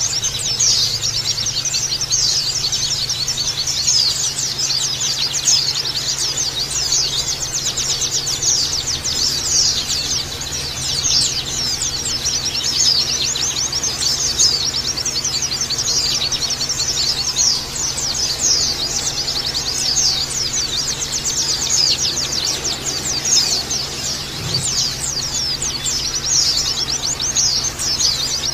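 A flock of white-eyes (pleci) chattering without a break: many overlapping, quick, high-pitched chirps and twitters.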